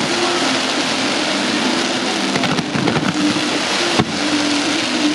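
Fireworks going off in continuous volleys: a dense, rain-like crackle and hiss from rows of rising comets and crackling mines, with a sharper bang about four seconds in. A low steady hum runs underneath.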